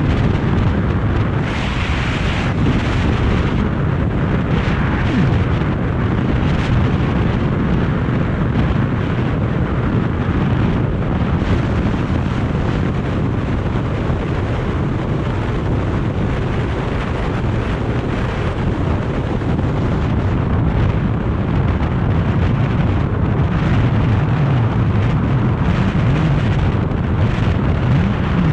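BMW R 1250 GS motorcycle under way at road speed: the boxer-twin engine's low drone under heavy wind rushing and buffeting over the microphone.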